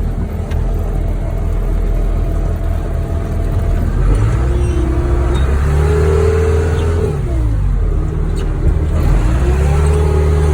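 Wheel loader's diesel engine revving up, holding high, dropping back, then revving up again near the end.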